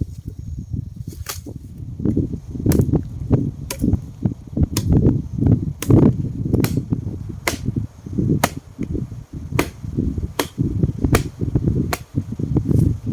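A sharp knock or strike, repeated roughly once a second, over a low, uneven rumble and rustle.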